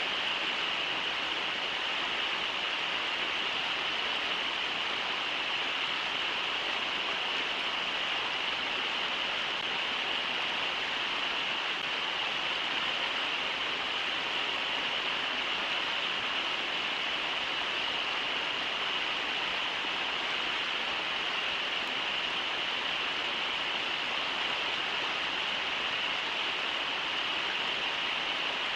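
Steady rushing of river water pouring over Brooks Falls, an even roar with no breaks.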